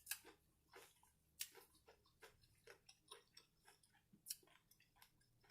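Faint close-up chewing of fried seafood: soft, irregular wet mouth clicks, a few a second, with the clearest ones at the very start, about a second and a half in, and a little past four seconds.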